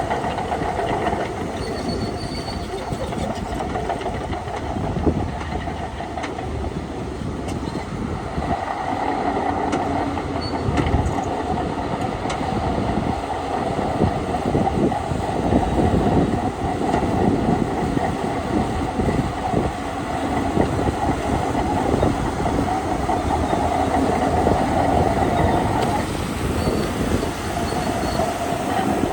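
Crawler bulldozer working: its diesel engine runs steadily under load while the steel tracks clank and rattle, with a whine that fades out briefly near the end.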